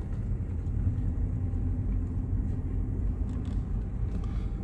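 Steady low rumble of a vehicle running and rolling along as it is driven.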